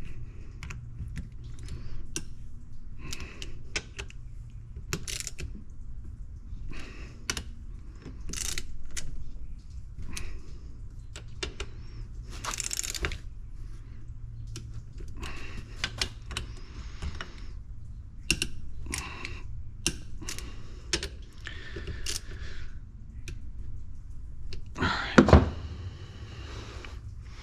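Hand tools clicking and clinking on a pressure washer pump's bolts as they are snugged down, in irregular bursts of small metal clicks, with one louder knock near the end.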